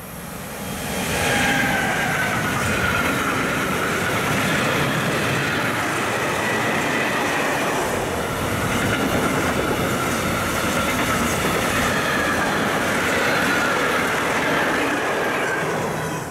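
A freight train of tank wagons hauled by an electric locomotive passes close by: steady loud wheel-and-rail running noise with a wavering high-pitched squeal from the wheels. It swells during the first second or so and fades as the last wagons clear, right at the end.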